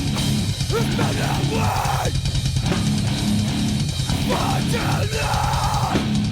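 Heavy metal band playing an instrumental passage: distorted electric guitars and a drum kit with pounding bass drum.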